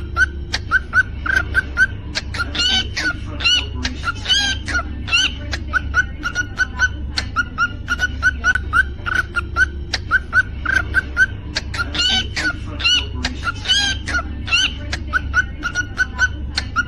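Cockatiel chirping and whistling: a steady run of short quick notes, several a second, broken twice by louder warbling phrases that rise and fall, over a steady low hum.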